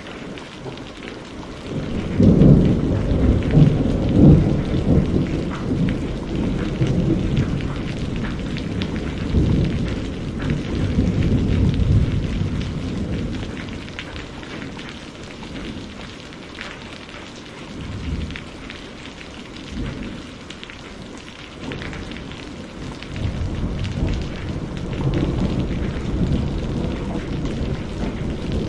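Steady rain falling, with thunder rolling in about two seconds in and rumbling on for around ten seconds, then coming back in weaker rolls later.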